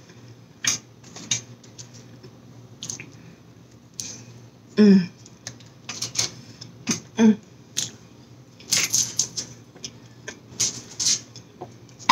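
Close-miked chewing of a bacon burger: wet mouth clicks and lip smacks at an uneven pace, with a couple of short pitched sounds about halfway through.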